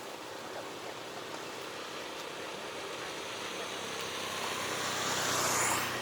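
A motor vehicle passing close by: its noise grows steadily louder over several seconds to a peak near the end, with a low engine hum coming in partway through.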